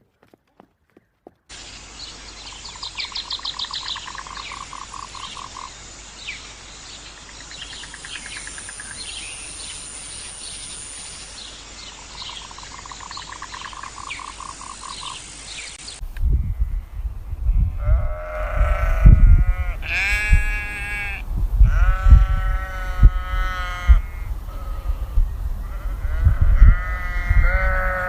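Short rapid trills and chirps from small animals over a steady hiss, then, about halfway through, sheep bleating loudly over and over, with low thumps beneath.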